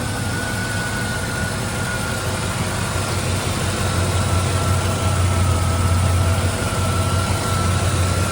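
The 1995 Impala's LT1 5.7-litre V8, swapped into a 1991 Caprice, idling steadily, with a faint high whine over the idle. The engine grows a little louder about halfway through.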